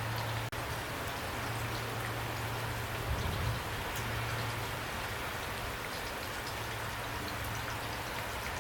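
Steady rain with scattered individual drop hits over a low, steady hum, cut by a momentary dropout about half a second in.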